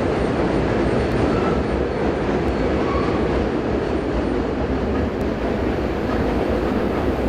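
Train rolling by on the rails: a loud, steady rumble of wheels and cars.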